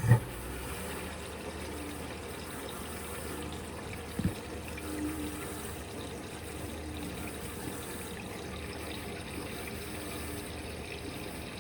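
Electrolux Quickwash commercial washing machine filling with water on a rinse, with a loud thump as it starts and a sharp knock about four seconds in, then a steady rush of water and machine noise. The owner puts part of the noise down to the drive belt.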